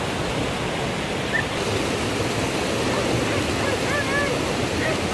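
Steady rushing water, like a stream or small waterfall, with a few faint bird chirps about three to four seconds in.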